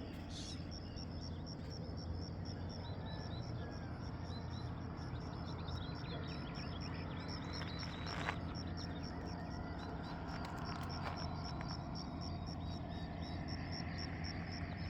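Rural outdoor ambience: an insect keeps up a high, evenly pulsing trill, with a few faint bird chirps and a steady low rumble underneath.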